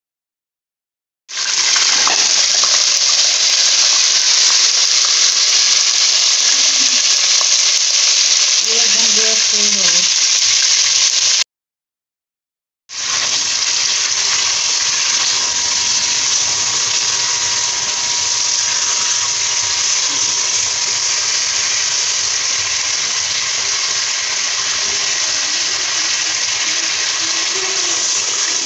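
Raw chicken pieces frying in hot oil with whole spices: a loud, steady sizzle while a spatula stirs them, as the meat's water cooks off. The sound drops to dead silence for about a second at the start and again for about a second and a half halfway through.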